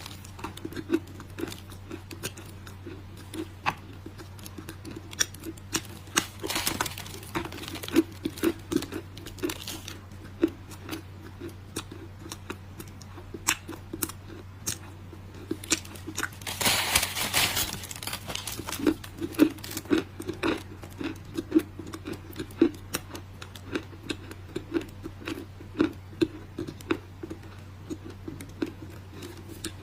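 Dry clay crunching and crumbling: a dense run of sharp crackles and snaps, with two longer crumbling bursts, over a steady low hum.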